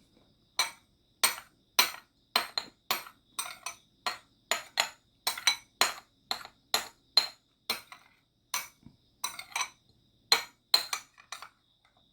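Eating utensils clinking against dishes during a meal, a run of about twenty sharp clinks at roughly two a second that stops near the end.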